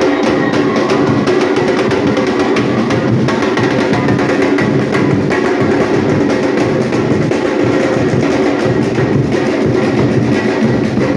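Batucada percussion band playing: many drums and small percussion striking a fast, dense, steady rhythm.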